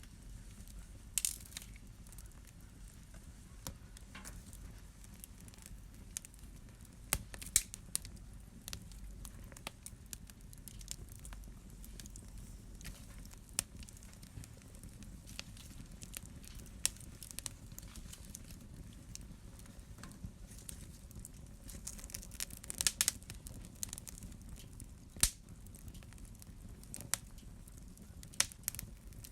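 Wood fire in a fireplace crackling, with irregular sharp pops and snaps over a low steady rumble of the flames; a cluster of louder pops about 23 seconds in.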